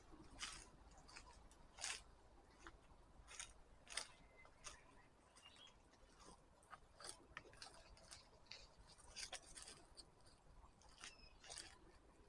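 Quiet footsteps crunching and crackling on dry leaf litter and twigs of a forest path, in an uneven stride with small crackles between the steps.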